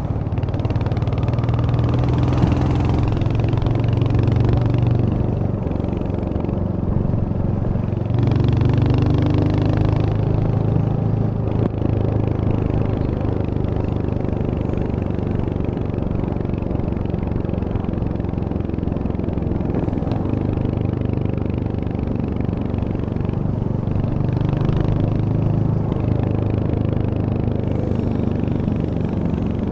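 Royal Enfield Hunter 350's single-cylinder 349 cc engine and exhaust running steadily during a ride, swelling louder three times: near the start, about eight seconds in, and near the end.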